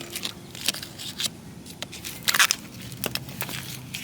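Scattered clicks and knocks of hand tools and metal suspension parts being handled during shock work, with one louder scrape a little past two seconds in.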